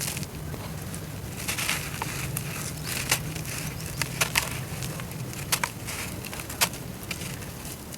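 Dry brown dirt crumbling in water, with crackling and a dozen or so sharp pops and clicks from about a second and a half in until near the end, over a steady low hum.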